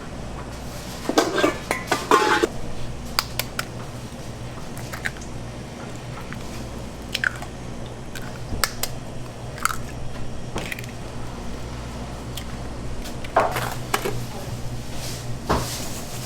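Clinks and clatter of metal bakery utensils and pans being handled, in scattered knocks, over a steady low hum of equipment.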